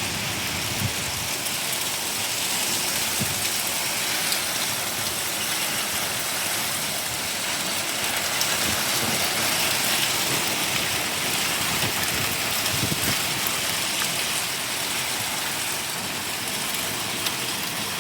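Rain mixed with pea-sized hail coming down: a steady hiss with scattered sharp ticks of hailstones striking surfaces.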